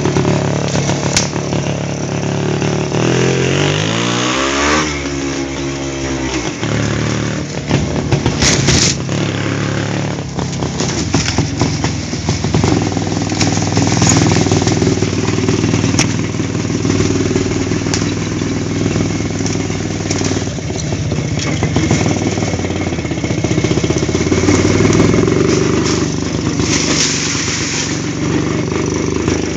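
WSK two-stroke motorcycle engine running under way on a rough forest track, its revs climbing and falling a few seconds in, then holding steadier. A few sharp knocks or clatters come through, one near nine seconds.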